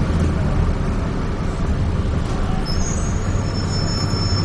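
Dennis Trident double-decker bus running, heard from inside: a steady low engine rumble under road noise. About two and a half seconds in, a thin high-pitched squeal of two steady tones starts and holds.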